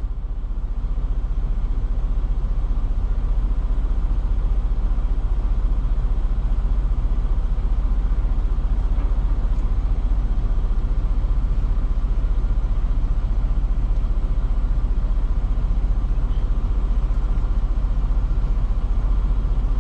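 Idling diesel truck engine, a steady low rumble heard from inside the cab.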